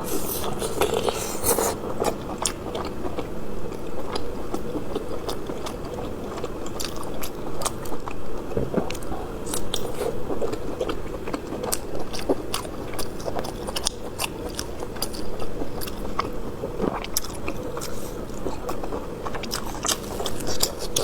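Close-miked chewing and biting of braised circle sausage, with many small mouth clicks and smacks.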